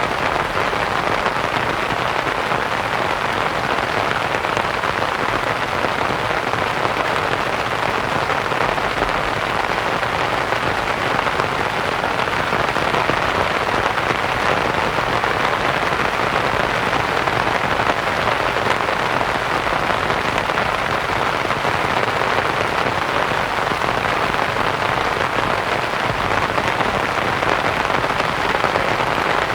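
Steady rain pattering on a canvas tent, blended with a soft white noise hiss; an even, unbroken wash of sound.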